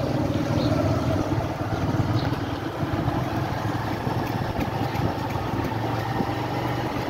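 A motor vehicle's engine running steadily at low speed, a continuous pulsing hum.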